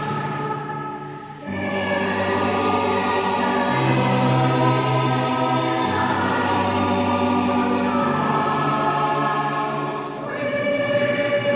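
Mixed choir singing held chords. The lower voices come in fuller about a second and a half in, and there is a short breath between phrases near the end.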